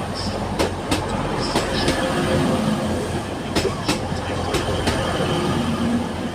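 A train arriving at a station, its wheels rumbling and clicking in pairs over rail joints, with a few faint wheel squeals.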